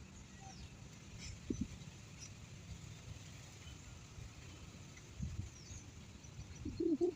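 Faint, scattered high bird chirps over steady outdoor background noise, some of them quick falling notes. Near the end comes a short cluster of louder, lower-pitched animal calls.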